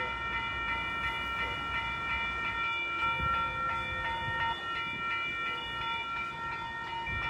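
Freight train of loaded hopper cars rolling past, with a continuous high-pitched metallic squeal over a low rumble and a few dull knocks.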